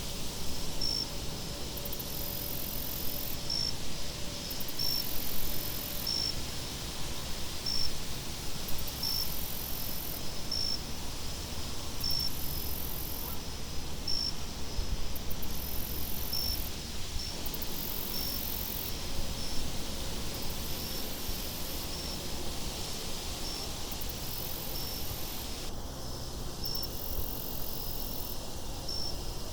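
Crickets chirping in an even rhythm, a chirp about every second and a half, over a steady low rush of wind.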